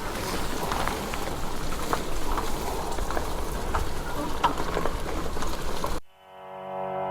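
Steady hiss of rain with scattered sharp ticks of drops and a low rumble underneath. About six seconds in it cuts off abruptly and music fades in.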